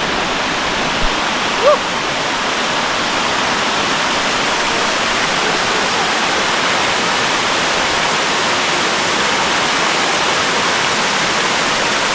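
Waterfall rushing, a loud steady roar of falling water, with one short rising chirp about a second and a half in.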